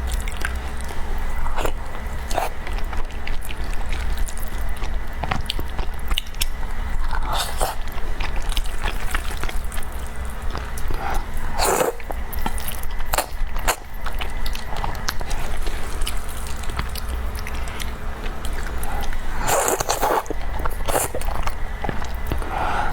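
Close-miked eating sounds: a person biting and chewing food, with scattered wet clicks and a few louder bites, over a steady low hum.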